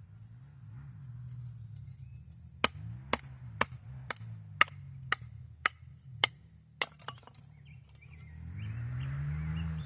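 About nine sharp, evenly spaced strikes, roughly two a second, of a hand tool chopping or hammering on wood. A low engine drone runs underneath and grows louder near the end.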